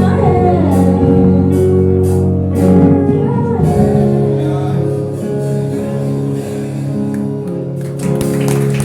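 A church worship band plays the song's closing bars: long held chords with guitar, and a voice sliding through a last sung note in the first second. The chords then carry on more softly.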